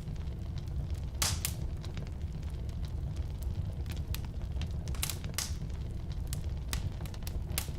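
Firewood burning in a fireplace: a steady low rumble of the flames with irregular sharp crackles and pops, a few louder pops about a second in and around five seconds in.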